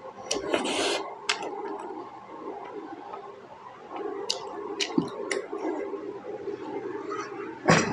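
Wet eating sounds from a juicy pork momo: squishy chewing with sharp smacking clicks and a short slurp just under a second in. A louder knock comes near the end.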